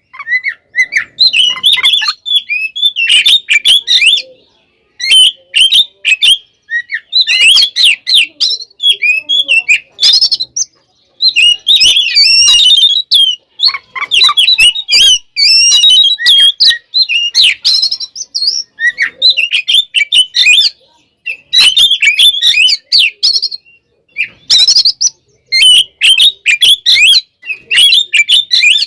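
Oriental magpie-robin (kacer) singing loudly in its aggressive fighting song: fast, varied chirps, whistles and trills poured out in bursts of one to three seconds with short pauses between.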